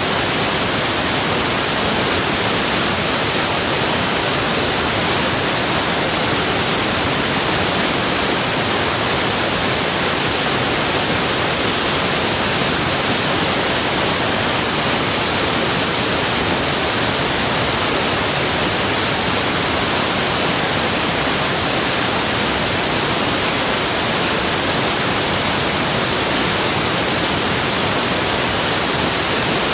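Rushing water from a forest waterfall or river, a steady, unbroken hiss with no changes.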